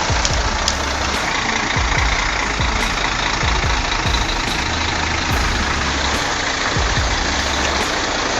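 A heavy vehicle's engine running steadily, mixed with background music that has a steady beat and a bass line.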